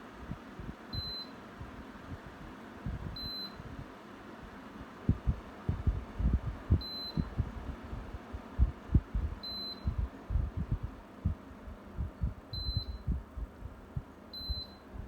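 Midea split air conditioner's indoor unit beeping six times, short high beeps at irregular intervals, acknowledging button presses from its remote. Low thumps of handling rumble run under the beeps.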